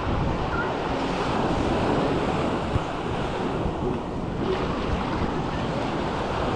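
Sea surf washing onto a beach, steady throughout, mixed with wind buffeting the microphone.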